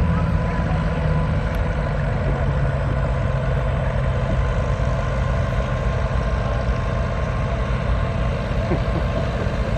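Tractor engine running steadily at a constant low note.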